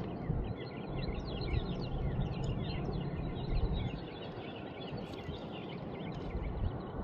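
Birds chirping, many quick short calls overlapping, over a steady low outdoor rumble; the chirping thins out about five seconds in.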